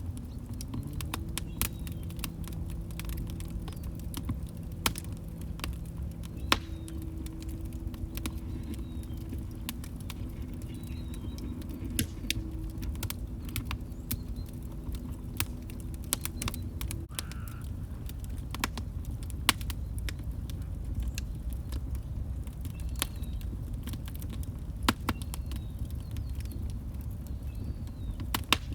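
Wood fire crackling in a fireplace: a steady low rumble of flames with frequent irregular sharp snaps and pops. For roughly the first half, a faint steady low tone with a slight upward glide runs underneath, then stops.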